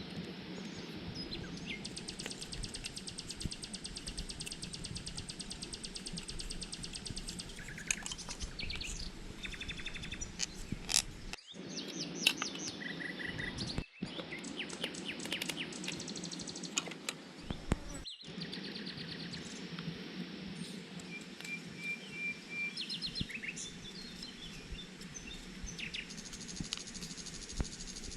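Wild birds chirping and calling, with many short trills and tweets over a steady outdoor background hiss. The sound drops out briefly a few times.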